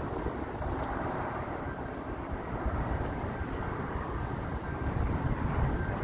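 Wind buffeting the microphone over the steady rumble of a distant train crossing a steel truss bridge, with a faint high whine coming in near the end.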